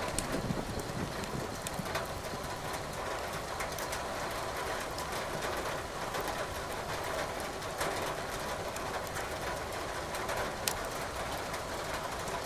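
Steady rain hiss with the occasional sharp crackle of burning firewood in a fireplace.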